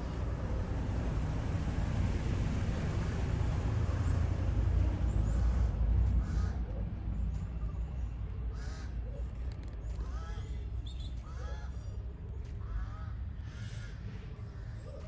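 Birds calling: a string of short, repeated calls in the second half, over a low rumble that is strongest in the first half.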